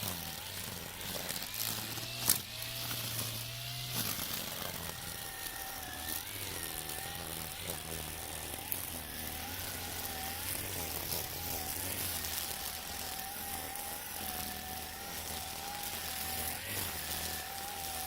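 Makita 40V split-shaft battery string trimmer with nylon line, running and cutting weeds. Its motor whine is steady and wavers slightly with the load, under the hiss of the line through grass, with one sharp click about two seconds in.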